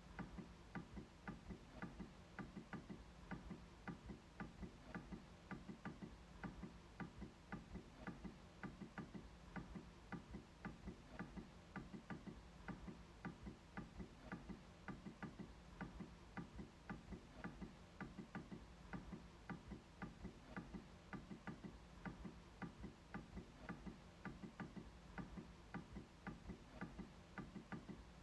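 MacBook trackpad being clicked over and over in a steady rhythm, about two to three faint clicks a second.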